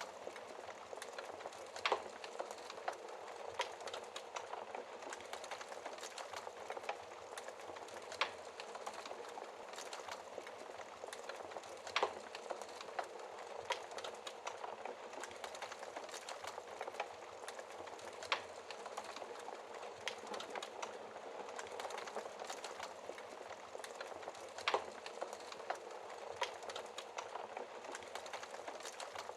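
Wood fire crackling in a fireplace: a steady hiss thick with small crackles, and a louder sharp pop every few seconds.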